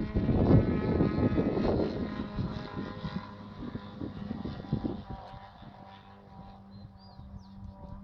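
Model airplane engine running with a steady tone, loudest with a rush of air noise about half a second in, then fading away.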